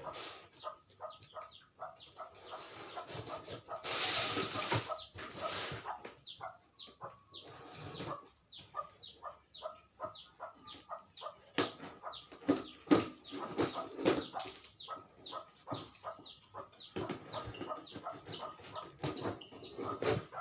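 Bantam chickens calling in a long run of short, high, falling notes, several a second. Two brief flurries of wing-flapping come about four and five and a half seconds in.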